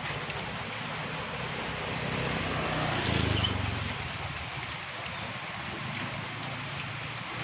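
Steady rain falling, with a low rumble that swells about three seconds in and then fades.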